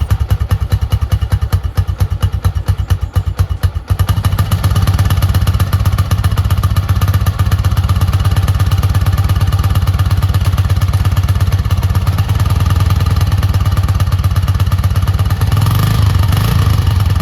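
CPI SUV 125 motorbike engine running through its homemade replacement exhaust, a steady rapid pulsing that gets louder about four seconds in, with a brief change in engine note near the end.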